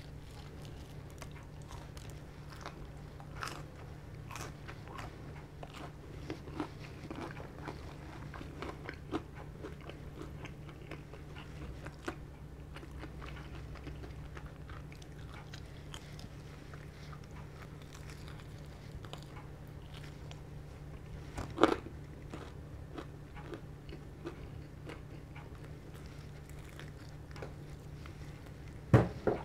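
Close-up eating sounds of someone biting and chewing crispy fried chicken: many small crunches and mouth clicks, with one louder sharp sound about two-thirds through, over a steady low hum.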